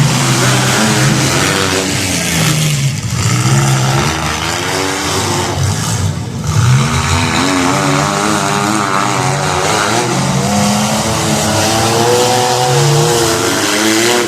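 Demolition derby car engines revving hard, several at once, their pitch rising and falling as the cars accelerate and back off.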